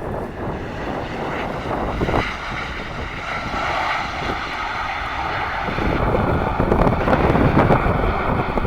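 Airplane engines running as an aircraft passes the airport spotting spot. The roar grows louder about two-thirds of the way through.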